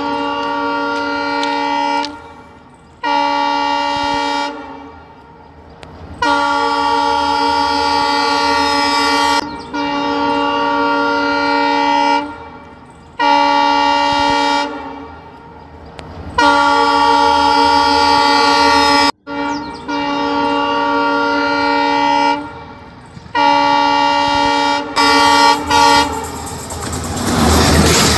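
Train horn sounding about nine times in long, steady blasts, each one to three seconds long, with short gaps between them. Near the end the train comes by close, and the loud rush and rattle of its wheels on the rails takes over.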